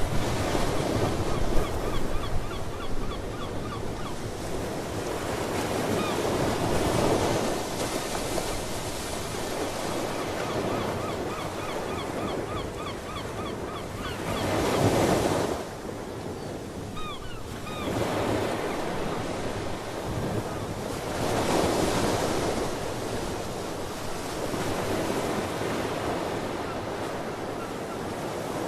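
Ocean surf breaking and washing in, swelling and falling every few seconds, with wind buffeting the microphone. Seabirds call in short chirps now and then over the waves.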